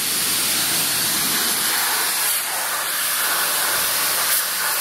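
High-pressure water jet from a car-wash spray wand blasting the deck and wheels of a gas leaf blower: a steady, loud hiss of spray with small swells as the jet moves.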